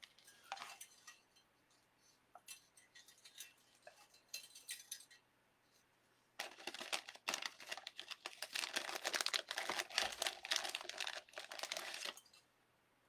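Wire and deco mesh being handled and fastened onto a metal wreath frame: scattered light clicks and clinks for the first few seconds, then a dense crinkling rustle from about six seconds in that stops shortly before the end.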